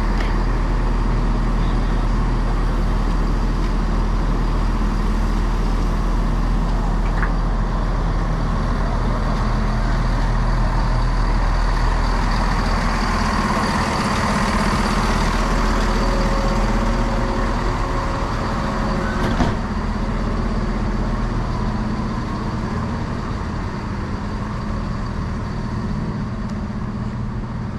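Diesel multiple-unit train's engine running steadily while it stands at the platform, with a single sharp knock about two-thirds of the way through.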